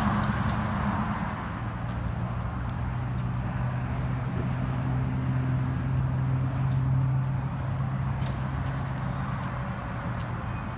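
A car engine idling steadily, a low, even drone.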